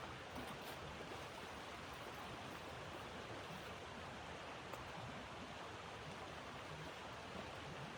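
Steady rushing noise of blizzard wind, even throughout, with one faint click about halfway through.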